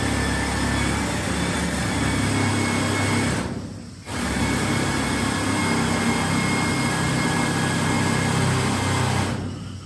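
A small motor running steadily, fading out briefly about three and a half seconds in and starting again half a second later.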